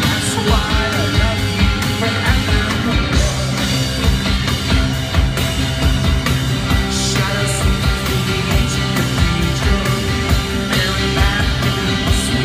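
Live rock band playing loud, distorted electric guitars over steady drums, with no clear vocals.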